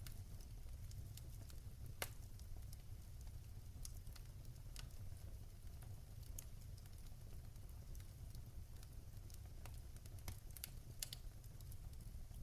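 Wood fire crackling in a fireplace: irregular sharp pops and snaps over a low steady rumble of the flames, the sharpest pop about two seconds in and a quick cluster of snaps near the end.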